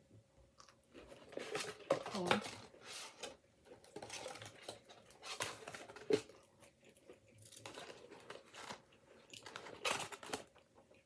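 Close-miked mukbang eating: chewing and crunching on fried onion rings in gravy poutine, in irregular bursts. A faint steady hum runs underneath.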